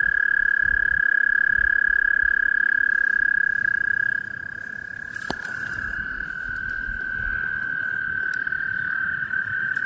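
Toads at their breeding pool trilling: one long, steady, high-pitched trill, loudest early on, fades about four seconds in while another slightly lower trill carries on.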